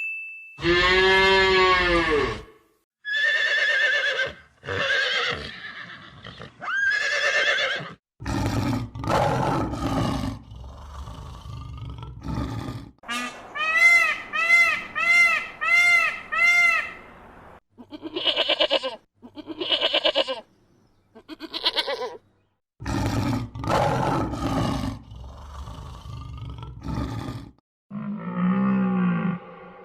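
Farm animals calling one after another: a string of separate pitched calls of differing kinds, each a second or two long, with short gaps between them.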